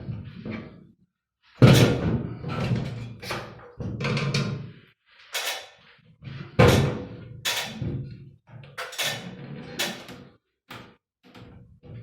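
A series of irregular knocks and thumps, about a dozen, each sharp at the start and ringing briefly, with the loudest about two seconds in and near seven seconds.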